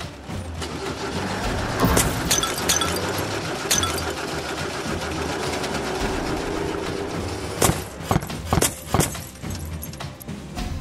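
Sound effects of concrete walls breaking and collapsing into rubble: a steady crashing rumble with sharp impacts about two seconds in, and a run of four loud knocks near the end.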